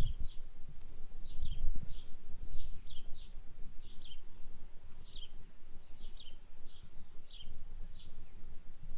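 A small bird chirping over and over, short high falling chirps often in quick pairs, about two a second, over a low uneven rumble.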